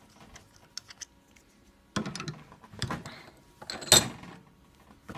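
Metal sterilizer parts clinking and knocking as the old bellows is unscrewed by hand and handled, with several handling knocks and a loudest sharp metallic clank about four seconds in.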